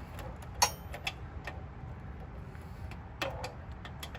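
A few sharp metallic clicks and light clinks of small bolts, nuts and lock washers being handled and fitted together: one click about half a second in, a few small ticks soon after, and a cluster of clicks near the end, over a steady low hum.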